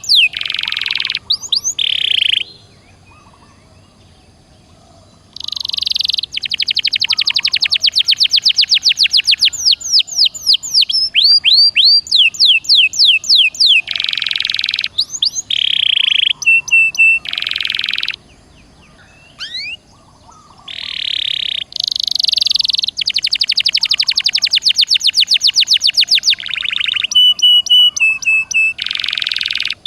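Domestic canary singing a loud, long song of fast repeated trills and rolls. It pauses twice for a couple of seconds: about three seconds in and again around eighteen seconds.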